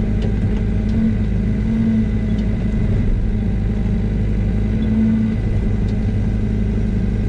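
Yanmar ViO80 mini excavator's diesel engine running steadily at low idle while the boom works. The engine hum swells briefly about a second in and again about five seconds in, with a few faint clicks.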